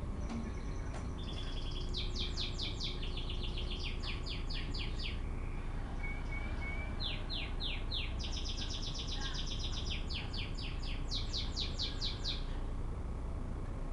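A songbird singing in fast trills of sharply falling notes, one run of a few seconds starting near two seconds in and a longer run in the second half, over a steady low rumble.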